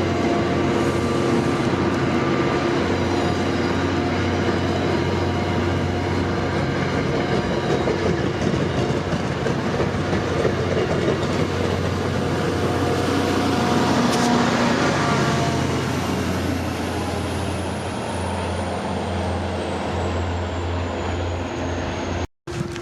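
A train rolling past on the rails with a loud, steady running noise. Late on, a faint high tone falls slowly in pitch.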